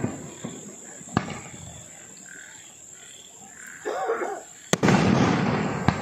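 Aerial bursts from a Pandyan 30-shot firework cake: a sharp bang about a second in, then two more near the end, the first of these followed by a dense crackling tail that dies away over about a second.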